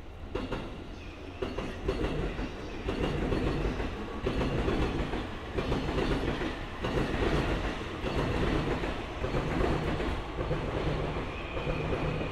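Train wheels rolling along the rails, a steady clickety-clack over a low rumble that comes up about half a second in.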